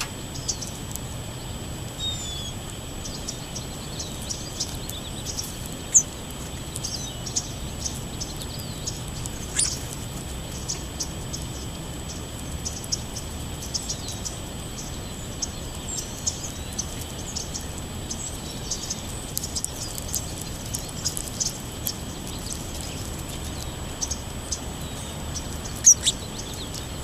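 Songbirds chirping and singing: many short, high calls scattered throughout, over a steady outdoor background hiss.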